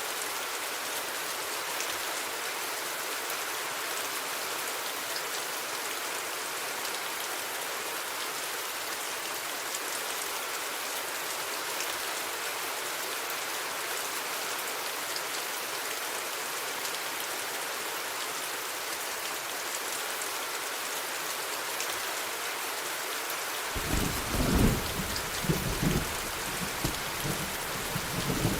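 Steady rain falling, an even hiss of drops on surfaces. Near the end a roll of thunder rumbles in low and uneven, louder than the rain.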